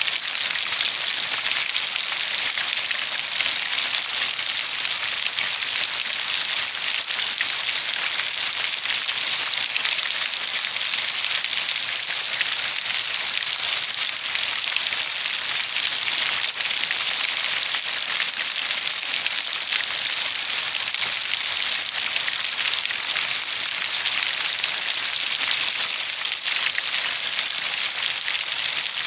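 Steady, dense rainfall, a continuous hiss of many fine drops with no let-up.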